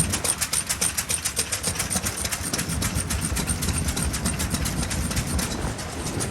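Vintage single-cylinder stationary engine (hatsudōki) running steadily, its exhaust giving sharp, even beats at about eight a second.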